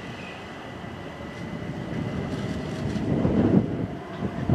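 Electric passenger train approaching and growing louder, its wheels starting to rumble and knock over the rail joints in the last second and a half.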